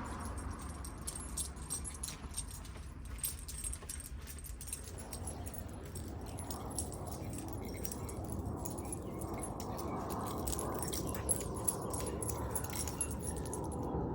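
A puppy moving about, its collar tags jingling and clinking in scattered bursts over a low steady rumble.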